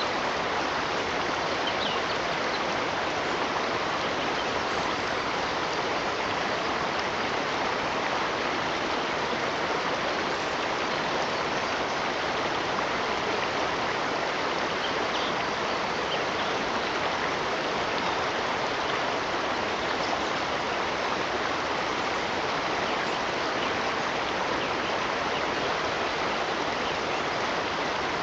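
Steady rushing of water in a flowing stream, even and unbroken.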